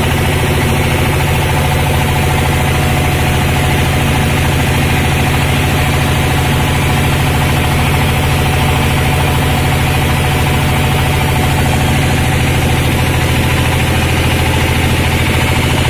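Sawmill machinery engine running steadily at an even speed, with a fast, regular pulse and no change in pitch or load.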